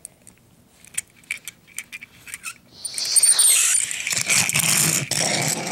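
Light clicks and taps of small objects being handled, then, about three seconds in, a loud rasping scrape that carries on to the end.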